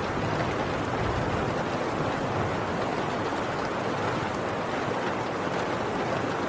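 Heavy rain falling on a tin roof, a dense, steady downpour with no let-up.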